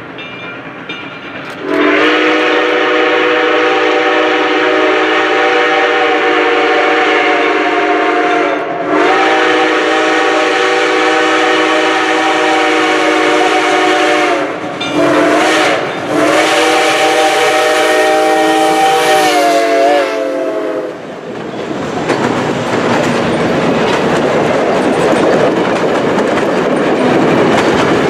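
A steam locomotive's six-chime whistle sounding a chord in long blasts with short notes between: long, long, two short, long, the pattern of a grade-crossing signal. After that the train rolls by, its wheels clattering over the rail joints.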